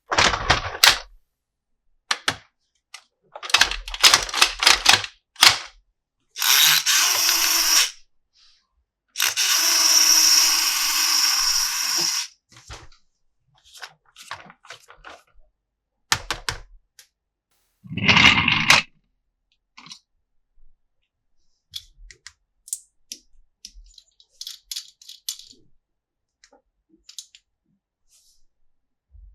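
Plastic toys and their packaging being handled: a string of separate clicks, taps and rattles, with three longer noisy sounds of one to three seconds each, the longest about ten seconds in.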